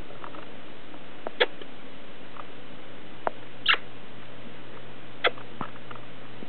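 Quaker parrot making a few short, sharp clicks and squeaks, spaced a second or two apart, over a steady hiss.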